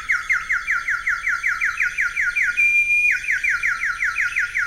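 Ceramic bird water whistle, filled about three-quarters with water, blown into a warbling trill of quick downward-sliding chirps, about four or five a second. About three seconds in the trill gives way to a brief steady note, then the warble resumes.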